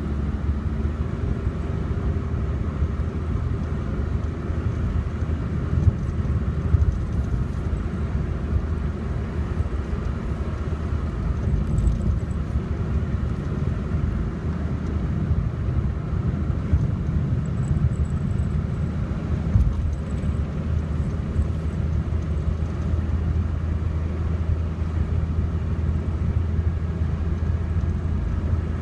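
A car driving along a mountain road, its engine and tyre noise making a steady, even rumble.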